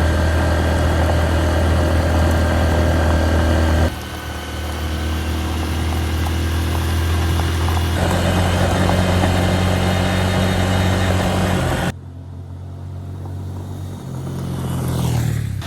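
Honda XR150L's small air-cooled single-cylinder engine running at steady speeds. The note jumps to a new steady pitch at several sudden cuts, and is duller and quieter for the last few seconds, where a sound sweeps down in pitch near the end.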